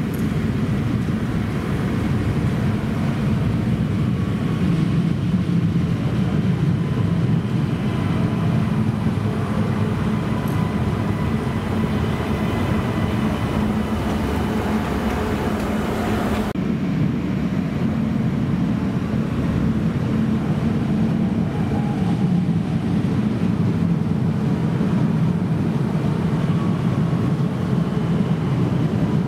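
Comboios de Portugal electric multiple unit running along an underground station platform: a loud, steady rumble of wheels on rail with a faint steady whine over it.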